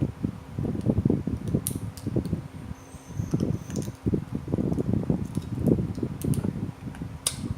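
Close-up chewing and mouth sounds of someone eating spicy seafood papaya salad: a busy, irregular run of wet chewing, with a few sharp clicks scattered through it.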